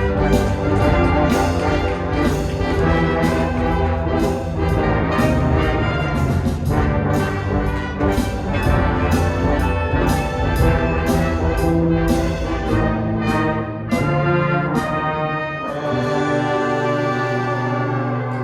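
Wind band playing full ensemble, led by brass, with regular percussion hits. The percussion drops out about sixteen seconds in, leaving held brass chords.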